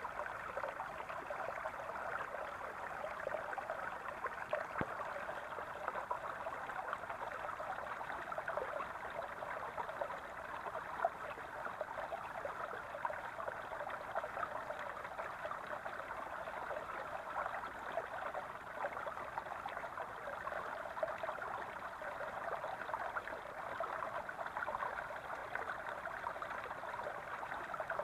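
Small brook babbling steadily over stones, a continuous gurgle of running water.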